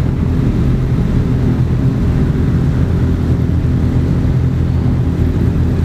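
Big sport motorcycle engine running loud and steady with a deep, even low note.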